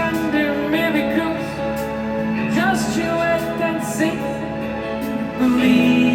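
Live soft-rock ballad played by a band: sustained chords under a gliding melodic line, swelling louder about five and a half seconds in.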